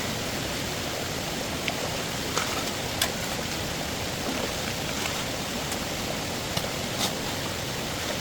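Steady rushing noise with a few light clicks and taps scattered through it.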